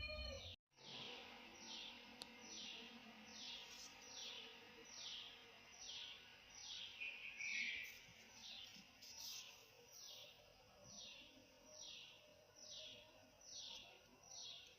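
A bird calling over and over, each call a short high note sliding downward, repeated about three times every two seconds at an even pace, faint in the background.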